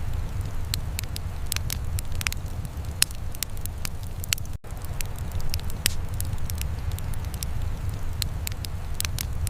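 Wood fire crackling in a fireplace: irregular sharp pops and snaps over a steady low rumble. The sound drops out for an instant about halfway through.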